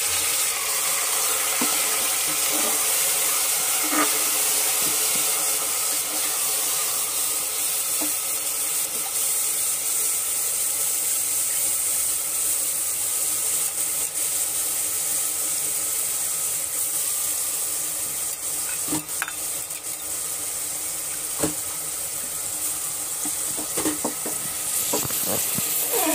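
Rice and red lentils sizzling in hot oil and browned onion in an aluminium pressure cooker, a steady frying hiss. Near the end a metal ladle stirs the mixture, knocking and scraping against the pot.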